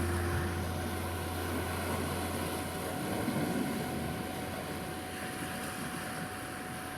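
Sea surf washing steadily, under a continuous pure 741 Hz meditation tone and a low droning synth pad that fades away about halfway through.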